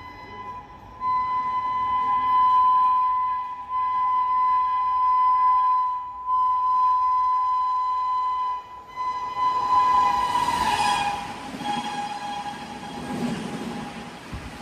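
Electric locomotive horn of an approaching express train, sounding four long blasts of a steady high tone; about ten seconds in its pitch drops as the train passes at speed, and the rush of the train going by follows.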